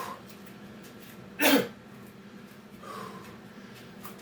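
A man breathing hard while recovering between sets of Navy SEAL burpees, with one sharp, forceful exhale about a second and a half in and a softer breath near the end.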